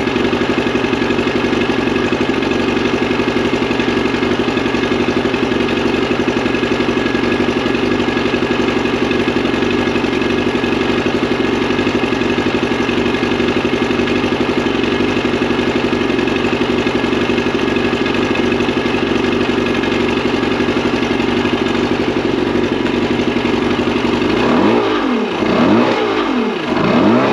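Mercury 175 EFI outboard engine running steadily, then revved up and down about three times near the end; the engine is running well again after its fuel trouble.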